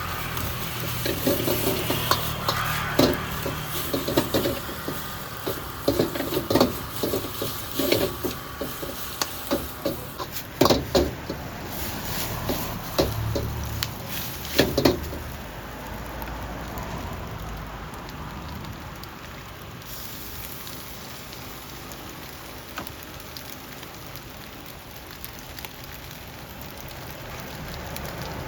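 Stir-frying in a wok: food sizzling while a metal spatula knocks and scrapes against the pan in quick clatters through the first half, then a steady sizzle.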